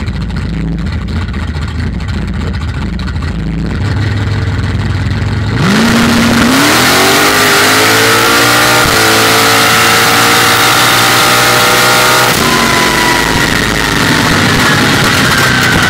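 Drag car's engine rumbling on the line, then launching hard a little over a third of the way in, revs climbing steadily at full throttle as it pulls down the strip. The pitch drops once near the three-quarter mark at a gear change, then climbs again.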